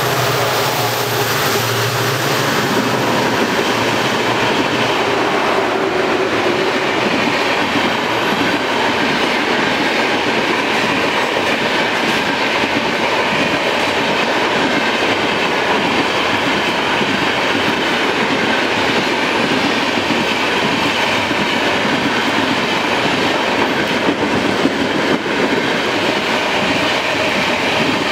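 Diesel-hauled express of LHB coaches passing at speed: a steady, loud rush of wheels on rail. The locomotive's engine is heard at first and fades within the first few seconds as the coaches follow.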